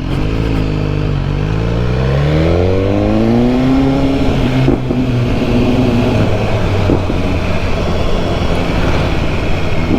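BMW S1000R inline-four engine pulling away. Its pitch rises for about three seconds, then it runs steadily at speed with wind rush.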